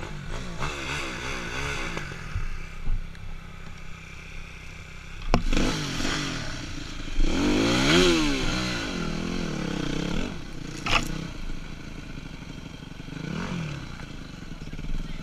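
Dirt bike engine revving up and down over and over, loudest about halfway through, with sharp clattering knocks about five seconds in and again near eleven seconds.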